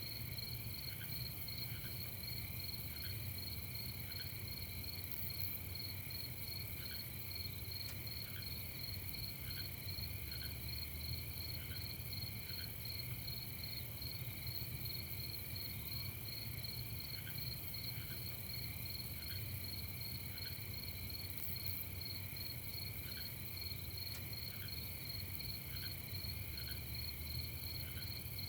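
Night chorus of crickets chirping steadily in fast, even pulses. Short, faint, lower calls come in small clusters every few seconds over a steady low rumble.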